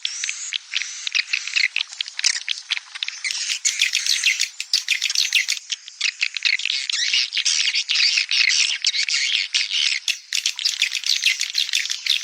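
Edible-nest swiftlets chirping and twittering in a dense, unbroken chorus of short high calls and quick pitch sweeps, briefly thinning about ten seconds in. This is a swiftlet-house lure call track, played to attract the birds to nest.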